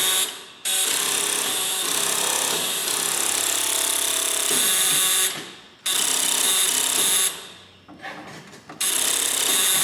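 Electric starter motor on a 1964 White being bumped over, whirring in four bursts with short gaps, the longest about four and a half seconds.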